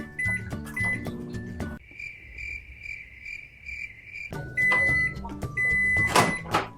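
Electronic beeping: a high beep repeated about six times in quick succession while the background music drops out, then the music returns.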